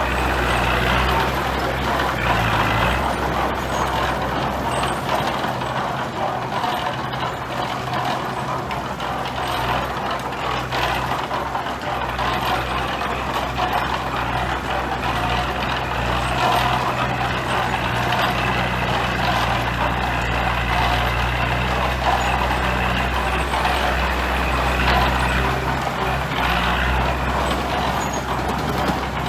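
Heavy diesel construction machinery running steadily, a low engine drone with a noisy mechanical rush over it, the engine note dropping briefly twice.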